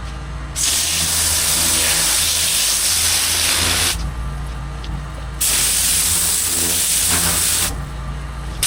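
Pressure washer spraying in two bursts of loud hiss, each two to three seconds long, as the trigger is opened and released. Under it the washer's motor hums steadily.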